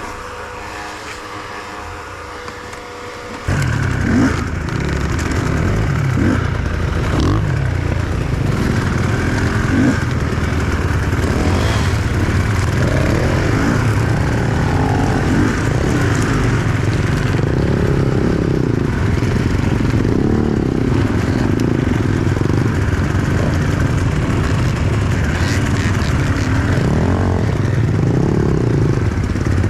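Enduro motorcycle engine idling, then about three and a half seconds in it opens up and the bike rides off, the engine running loud under load with revs rising and falling.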